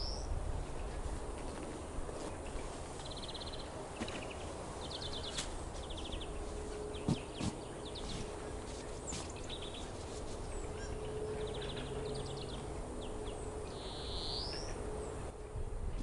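A songbird singing overhead in short trilled phrases, repeated every couple of seconds, some ending in a rising whistle, over a low rumble of wind on the microphone.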